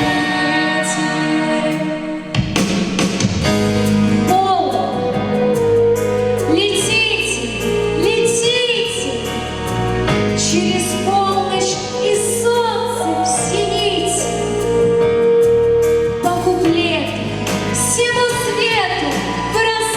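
A woman singing a Russian pop song over instrumental accompaniment with a bass line and a steady beat; the accompaniment fills out about two seconds in.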